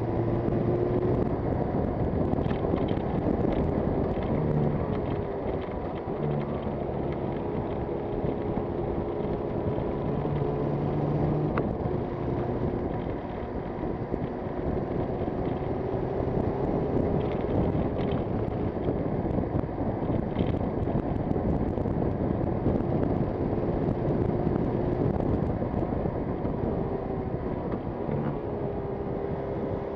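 Yamaha TZR250's two-stroke twin engine running under way, its note drifting up and down a little with the throttle, over a steady rush of wind on the microphone.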